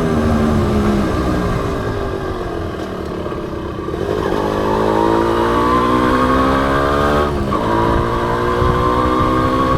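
Honda CDI H100S's small single-cylinder four-stroke engine on a ride. The engine slows and quietens for the first few seconds, then pulls up in pitch under acceleration, with a brief break about seven and a half seconds in as it changes gear before climbing again.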